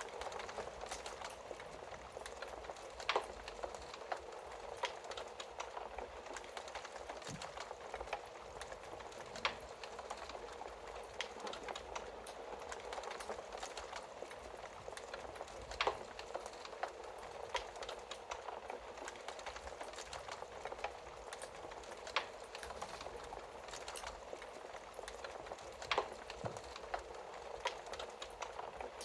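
Wood fire burning in a fireplace: a steady soft hiss of flames with frequent small crackles and occasional louder pops, a few seconds apart.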